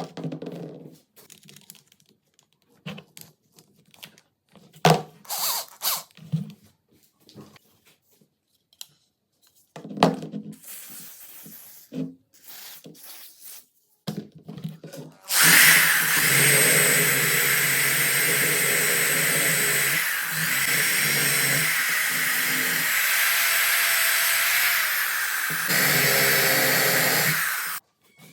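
Scattered light clicks and knocks of parts being handled, then a small power tool starts about halfway in, runs steadily for about twelve seconds and stops suddenly.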